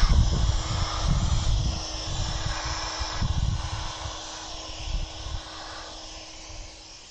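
Wind buffeting the microphone in low gusts over a steady hiss and a thin constant hum, all fading down steadily.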